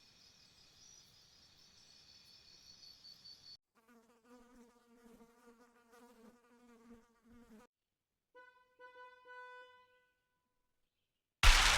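A string of separate wildlife sounds with abrupt cuts between them: a high, thin insect buzzing, then a lower buzzing drone, then a short pitched animal call. A loud burst of rushing noise begins near the end.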